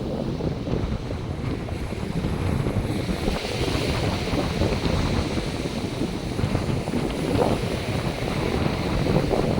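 North Sea surf breaking and washing up the beach, a steady rushing noise whose hiss swells about three seconds in, with wind buffeting the microphone.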